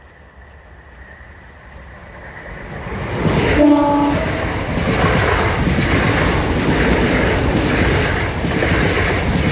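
A Class 365 electric multiple unit train approaches and passes at speed, growing louder over the first few seconds. Just under four seconds in it gives one short horn toot. Then comes the loud rush of the passing train, with a regular clatter of wheels over the rails.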